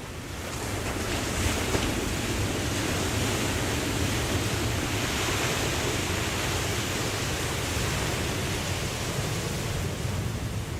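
Ocean surf: a wave swells about a second in into a sustained rush of breaking water, easing off near the end.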